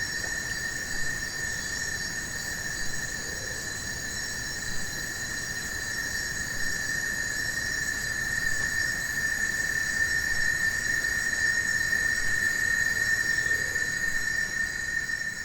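Tropical rainforest insects calling in a steady chorus: one high, unbroken tone with several shriller tones above it, growing a little louder toward the end.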